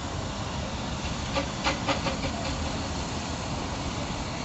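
A 15-inch gauge miniature railway train running, a steady noise with a quick run of about six clicks about a second and a half in.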